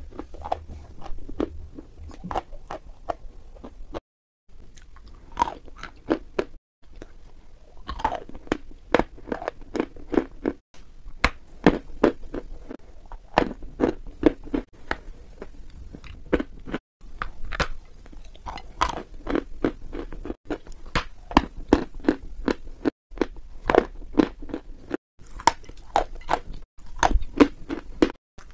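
Close-miked biting and crunchy chewing of brittle white food, crisp crunches coming one after another. The crunching is broken several times by sudden short silences where clips are cut together.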